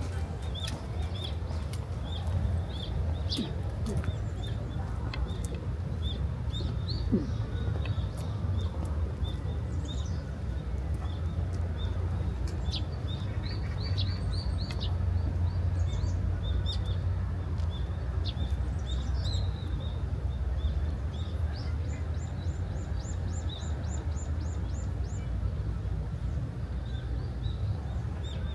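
Small birds chirping outdoors, with many short high calls and, about two-thirds of the way through, a quick trill of a dozen or so rapid notes, over a steady low rumble.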